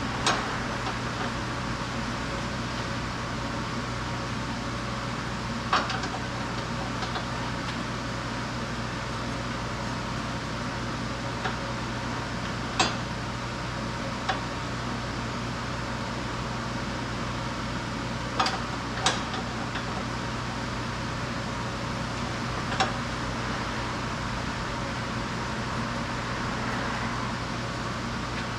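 Steady workshop hum with scattered light clicks and knocks, about seven in all, from tools and parts being handled.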